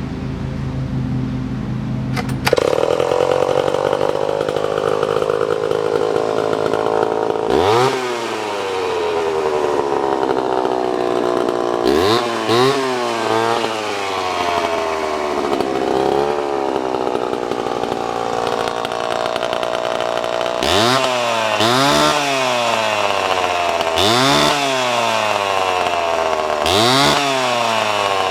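A steady low hum, then about two and a half seconds in a Homelite C-7 two-stroke chainsaw fires and runs. The throttle is blipped repeatedly so the engine revs up and falls back, a sign that it starts easily and runs cleanly.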